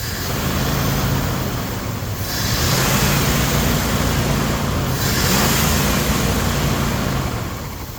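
1999 Dodge Ram 1500 pickup engine running, with a hissing rush that swells louder twice over its steady hum.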